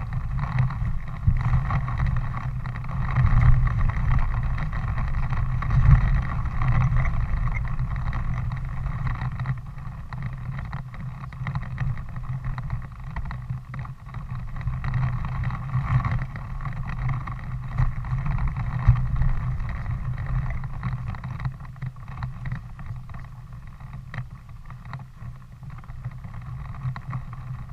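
An engine running steadily, with a low hum and rumble that eases off somewhat after about ten seconds.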